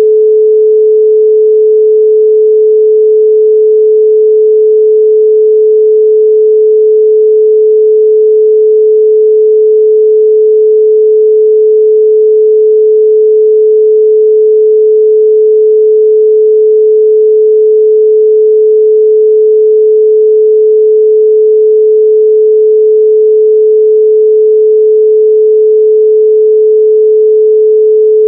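A loud, steady 432 Hz pure sine tone, one unwavering pitch with no overtones.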